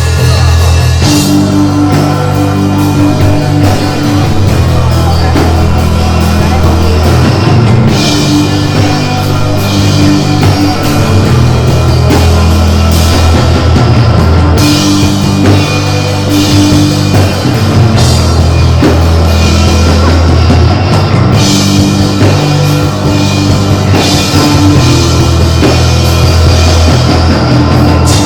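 Live band playing loud, heavy rock music with drum kit, distorted guitar and bass, the bass line shifting in long held notes every few seconds.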